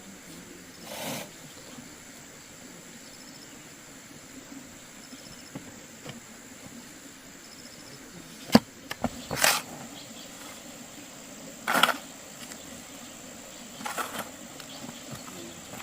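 Steady high-pitched drone of insects, with faint repeated chirps. A sharp knock sounds a little past halfway, and several short rustling or scraping noises come and go.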